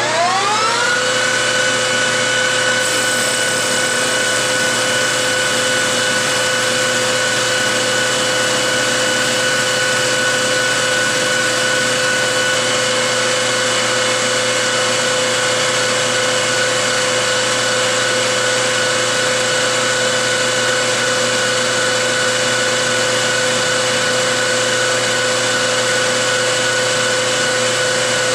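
Metalworking lathe spindle winding up to about 2,000 RPM for a friction weld, its whine rising in pitch in the first second. It then holds a steady, high-pitched whine.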